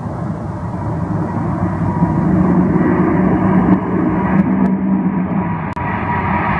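Boeing 747-8F freighter's four GEnx turbofan engines at takeoff thrust: a loud, continuous jet rush with a faint steady whine above it, growing louder over the first few seconds and then holding.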